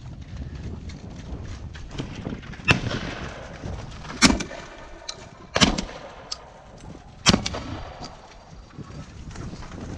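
Four shotgun shots at bird targets, spaced about one and a half seconds apart, each a sharp report with a short echoing tail.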